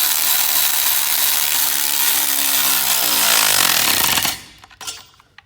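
Impact wrench running and hammering a downpipe fastener tight for about four seconds, its pitch falling as it winds down.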